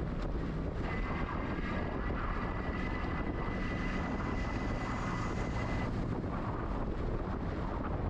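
Wind noise on an action camera's microphone while cycling, a steady low rush, with a thin high whine that starts about a second in and stops about six seconds in.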